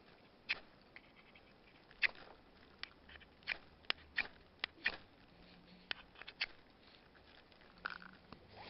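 Irregular sharp clicks and light crackles, about a dozen over several seconds, from hands handling twigs, tissue paper and a ferro rod while laying out fire-lighting materials.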